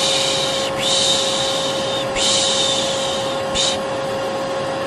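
Vacuum cleaner running steadily with a constant humming tone, overlaid by a person shushing in long, repeated 'shhh' strokes of about a second each, with a brief pause in the shushing near the end.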